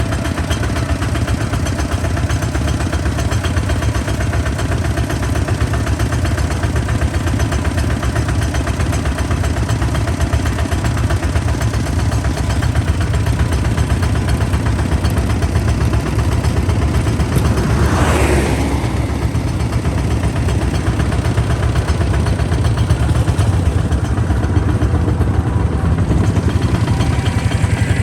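Kubota ZT155 DI single-cylinder diesel engine running steadily with a fast, even exhaust beat, and a brief sound rising in pitch about two-thirds of the way through.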